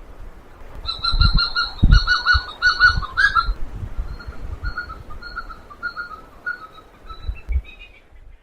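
Petrel calling: a fast, chattering run of repeated notes, loudest in the first few seconds, then fainter repeats that stop just before the end. A few low thumps sound beneath the calls.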